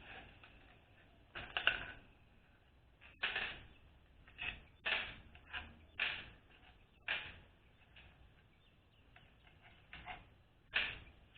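Small metal transmission parts and hand tools being handled, with about a dozen sharp clinks and knocks at irregular intervals, each dying away quickly.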